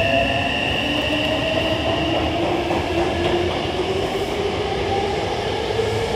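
Hankyu 9000 series electric train pulling away from a station, its traction motor whine rising slowly in pitch as it accelerates, over steady wheel-on-rail rumble.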